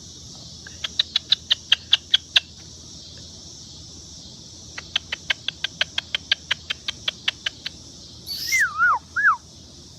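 Moluccan cockatoo making two rapid runs of sharp beak clicks, about six a second, then a short gliding whistle-like call near the end, over a steady hiss of insects.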